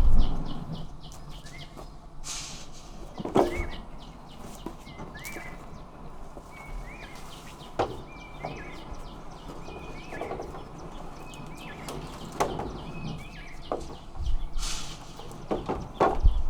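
Small bird chirping repeatedly, short high peeps about one a second for several seconds, with rustling and a few knocks around it.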